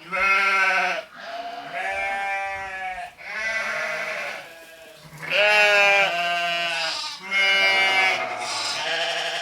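Sheep bleating: about five drawn-out calls of a second or so each, one after another with short gaps.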